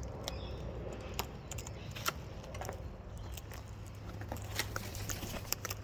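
Wild parrots feeding at close range: irregular small clicks and crackles over a low, steady background rumble.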